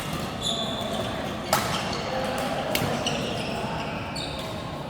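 Two sharp knocks, about a second apart, echoing in a large hall over background chatter.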